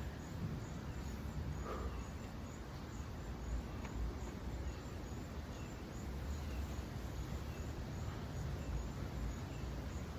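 Insects chirping steadily outdoors, a faint high chirp repeating about twice a second over a low rumble.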